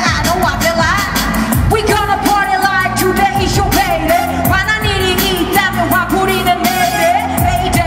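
Live upbeat pop song played loud by a band, with a female singer belting wavering, vibrato-laden lines over steady, regular drum hits.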